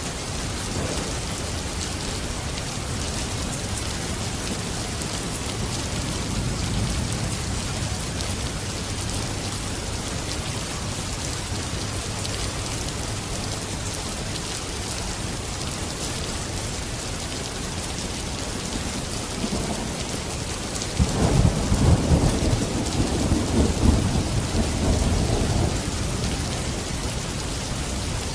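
Steady heavy rain with a low rumble of thunder a few seconds in and a louder, crackling thunder roll about three quarters of the way through that fades over several seconds.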